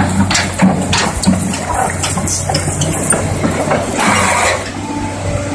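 Diesel engine of heavy construction machinery running steadily, with scattered clanks and knocks, and a short rush of noise about four seconds in.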